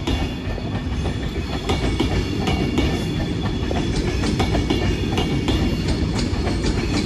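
Avanti West Coast Class 390 Pendolino electric train rolling past over the tracks, its wheels clicking over rail joints and pointwork above a steady rumble, with a faint high whine.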